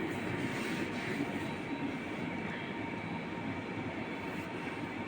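Steady running noise of a moving vehicle, with a faint steady whine over it.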